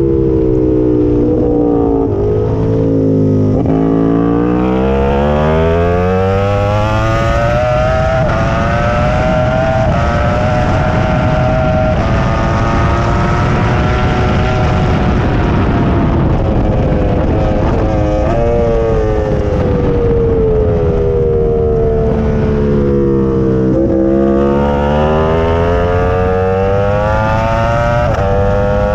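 Onboard sound of a Ducati superbike racing on track. The engine note drops in steps through downshifts over the first few seconds, then climbs through a series of upshifts, runs high near the middle, and falls through downshifts again before climbing once more near the end. A rush of wind runs throughout.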